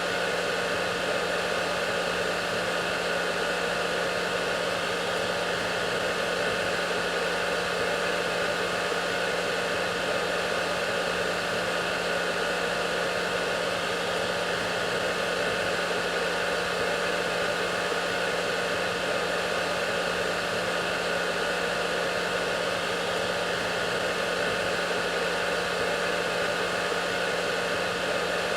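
Hair dryer running steadily: an even rushing noise over a low motor hum, with a few faint steady tones in it.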